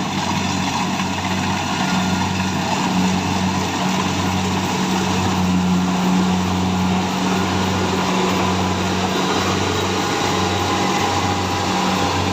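Kubota combine harvester running steadily while harvesting: a continuous diesel engine and machinery hum over a dense rushing noise, with a slow regular pulse in the low hum.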